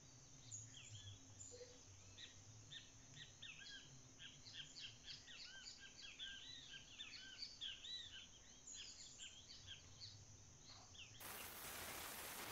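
Faint chorus of small birds chirping, many short arched notes crowding together in the middle. About eleven seconds in it cuts abruptly to a steady hiss.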